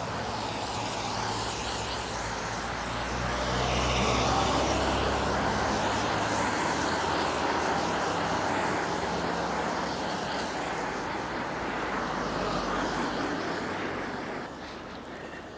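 Road traffic going by: car engines and tyre noise, swelling about four seconds in as a vehicle passes close and dropping away near the end.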